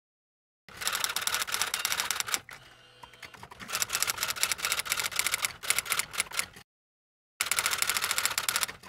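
Rapid typing: quick runs of key clicks, about ten a second, starting about a second in, easing off briefly around three seconds and stopping dead for a moment near seven seconds before resuming.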